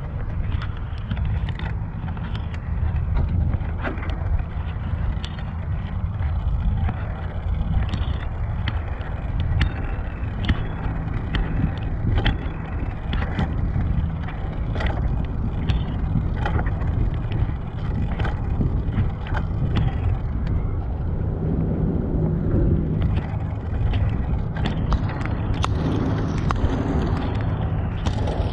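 Riding a bicycle: steady wind rumble on the microphone and road noise, with frequent short clicks and rattles throughout.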